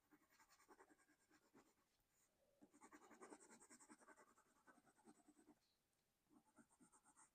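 Faint scratching of a soft Prismacolor colored pencil on sketchbook paper in quick, rapid strokes, pausing briefly near the end.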